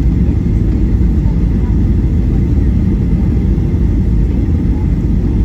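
Steady cabin roar of a Boeing 737-800 in flight, heard from a rear window seat: engine and airflow noise, deep and even with no sudden knocks.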